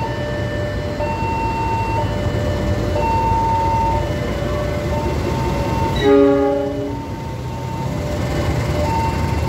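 Passenger train rumbling past, with one short horn blast about six seconds in. A two-tone signal alternates about once a second throughout.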